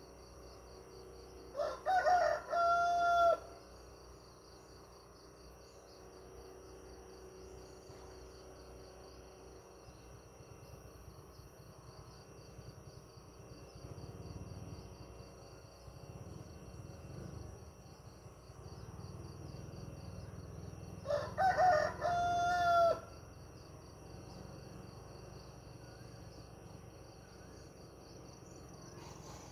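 A rooster crowing twice, about twenty seconds apart, each crow ending on a held note, over a steady background of crickets chirring.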